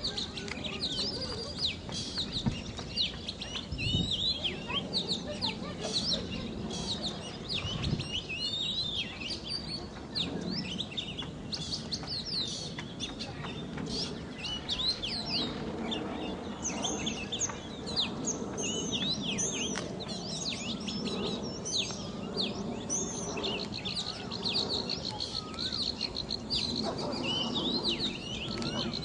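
Many small birds chirping and twittering, with quick, overlapping high calls throughout and a steady high trill near the end.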